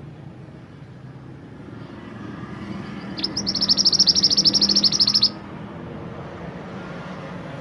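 Mantenan gunung songbird singing one fast, high trill of rapidly repeated notes, lasting about two seconds, over a steady low rumble.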